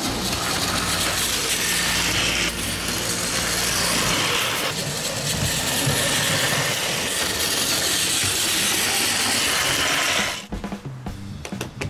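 Battery-powered Plarail Kintaro toy locomotive pulling a string of freight cars, its small motor and gears whirring and the cars rattling on plastic track close by. The noise drops away sharply near the end.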